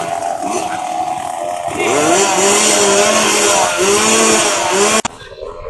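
Motocross motorcycle engines revving hard, the pitch climbing and dropping with throttle and gear changes, growing louder about two seconds in. The sound cuts off abruptly near the end.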